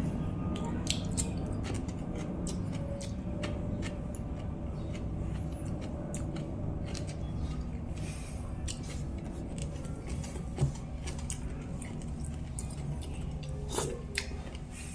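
A person eating close to the microphone: irregular chewing and mouth clicks with the odd utensil tap, over a steady low hum.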